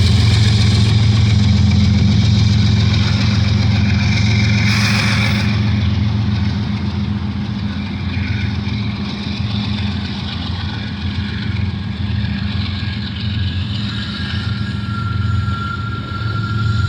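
Freight cars of a long manifest train rolling past: a steady loud rumble of steel wheels on rail with fast clatter. A thin high squeal enters near the end.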